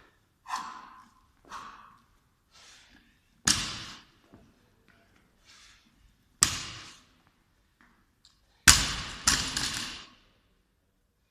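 Hard breaths during a workout, then a loaded barbell with bumper plates hitting the floor: heavy thuds about a third of the way in and past halfway, and a double thud near the end, the second coming about half a second after the first.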